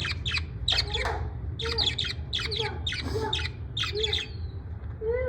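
Pet parrot squawking in a quick run of short, harsh calls, with a lower repeated note underneath.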